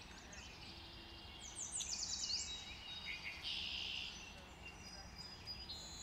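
Faint songbirds singing: a quick run of high down-slurred notes about two seconds in and a short buzzy phrase a little later, over a steady low rumble.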